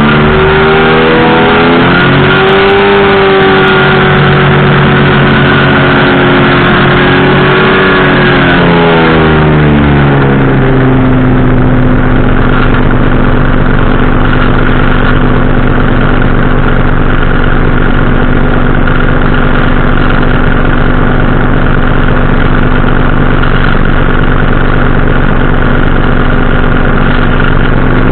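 Powered parachute's engine and propeller running loudly. The engine speed rises a little about two seconds in and holds, then drops around ten seconds in and settles to a steady, lower-pitched drone: the throttle is eased back.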